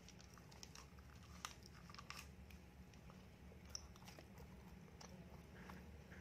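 Faint, close-miked chewing of a donut: soft wet mouth clicks and smacks. A brief crinkle of the paper donut liner being handled and set down comes a little past the middle.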